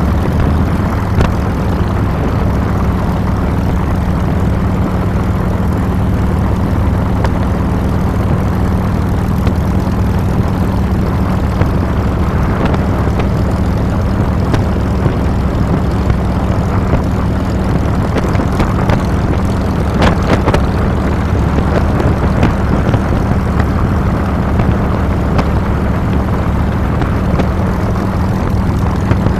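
2007 Harley-Davidson Fat Boy's Twin Cam 96 V-twin running steadily under way, heard close from the handlebars with a dense rush of wind and road noise over the engine note. A brief clatter about two-thirds of the way in.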